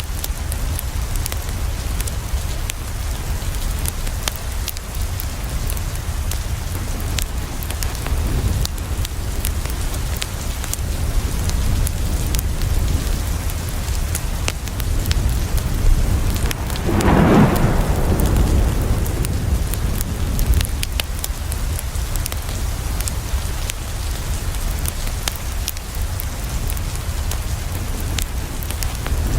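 Steady rain falling on a window, with scattered sharp crackles throughout. About halfway through, a low roll of thunder swells and fades over two or three seconds.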